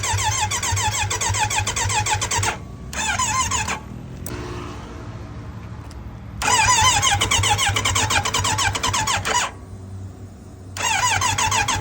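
Kawasaki Z900RS inline-four being cranked on its electric starter in four separate tries of one to three seconds each, a rhythmic warbling whine that does not catch: the engine turns over but will not fire.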